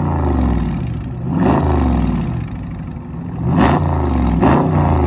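The 6.4-litre 392 HEMI V8 of a 2020 Dodge Charger Scat Pack revving through an exhaust with its mid mufflers deleted. It blips up and back down about a second and a half in, then twice in quick succession near the end.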